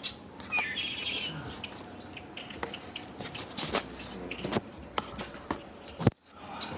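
Birds chirping in short calls, with scattered light clicks and taps of handling throughout and one sharp, loud click about six seconds in.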